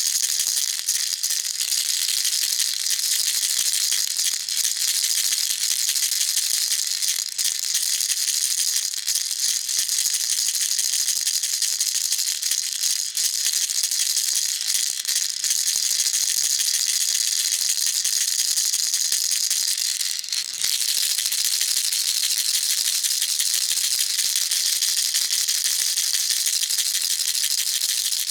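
Baby rattle shaken without pause, a dense, bright, unbroken rattle of small beads, with a brief dip about 20 seconds in.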